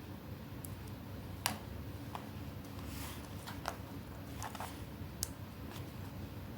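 Scattered light clicks and taps of paper craft pieces being handled, the sharpest about a second and a half in, over a steady low hum.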